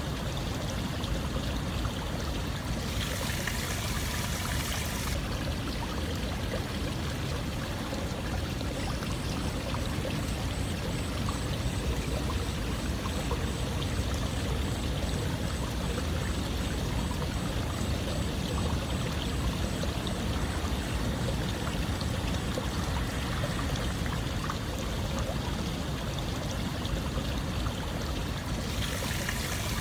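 Steady rush of flowing water, a continuous even wash with most of its weight low. The high hiss brightens briefly about three seconds in and again near the end.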